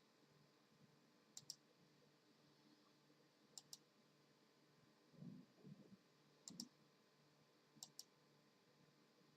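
Faint, sharp clicks in pairs, four times, with a few soft low thumps a little past the middle, against near silence.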